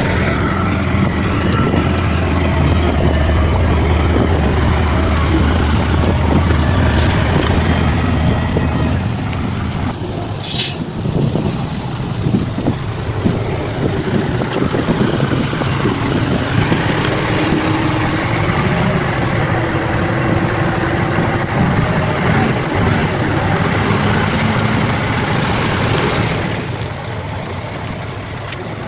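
Bulldozer's diesel engine running under continuous machine noise, with a strong low drone for the first nine seconds or so that then eases off. A brief high hiss comes about ten seconds in.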